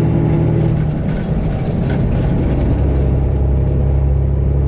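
Straight-piped Detroit Diesel 12.7 engine of a Freightliner Classic XL semi truck running under way with a steady drone. About a second in, its note drops and settles into a lower steady tone.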